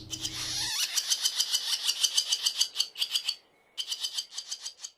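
Swallow twittering: a fast run of high, chattering notes, about six a second, that breaks off briefly and then starts again near the end.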